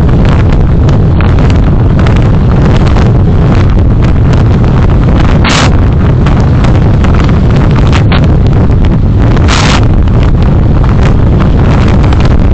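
Road noise from a car driving, picked up by a dashcam microphone: a loud, steady low rumble of engine, tyres and wind. Two short hissing bursts come about five and nine and a half seconds in.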